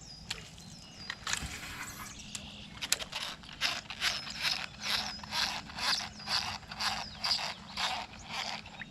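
Fishing reel being cranked, a rasping stroke about twice a second that starts a few seconds in and keeps an even rhythm.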